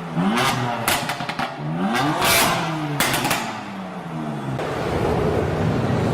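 Modified car engine revved repeatedly, its pitch climbing and dropping with each blip, with sharp exhaust cracks on several of the revs. Near the end the revving gives way to a steady low rumble.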